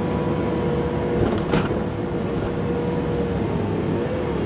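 Payloader's diesel engine running steadily, a low rumble with a held whine, with a short knock about one and a half seconds in.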